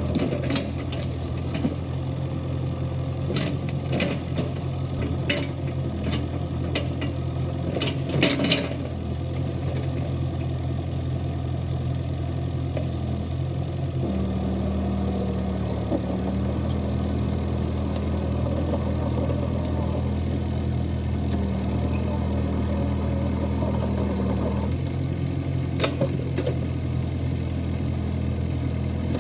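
Kubota KX71-3 mini excavator's diesel engine running steadily. Its note changes for about ten seconds from halfway through, then settles back. A few sharp clanks come early on, the loudest about eight seconds in.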